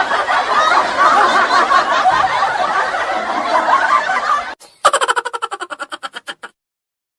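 Laugh-track sound effect of many people laughing, cut off suddenly about four and a half seconds in. It is followed by a short effect of rapidly repeating pitched pulses that fade away over about a second and a half.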